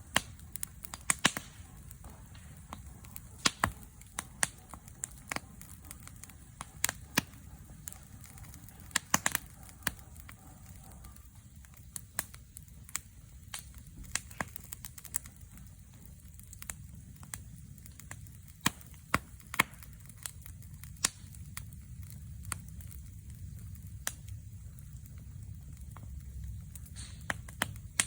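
Wood fire crackling: irregular sharp pops and snaps, some much louder than others, over a low steady noise.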